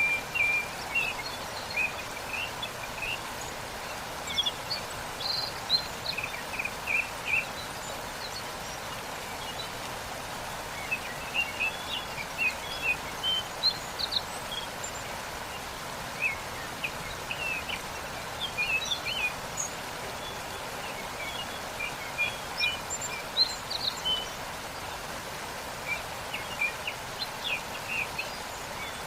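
Steady rush of a waterfall, with birds chirping in short scattered bursts throughout.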